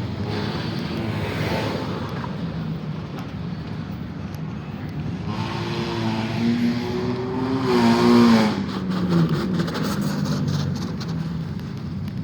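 Car engines running as cars drive out, with one engine getting louder and revving, its pitch rising slightly then dropping as it goes by around eight to nine seconds in.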